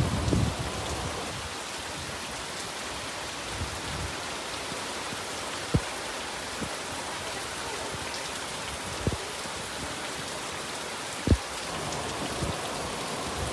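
Steady rain falling, an even hiss. A low rumble dies away in the first second, and a few short low thumps stand out near the middle and later on.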